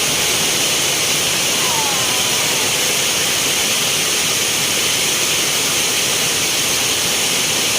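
Heavy rain pouring down, a steady, loud hiss of falling water.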